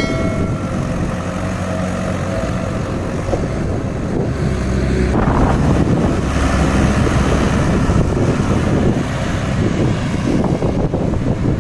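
Diesel tractor engines running on a highway, with wind buffeting the microphone. The engine note gets louder about five seconds in.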